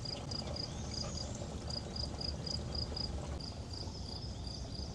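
A cricket chirping: short high chirps repeated about four times a second, with a brief pause about a second and a half in, over a low steady rumble.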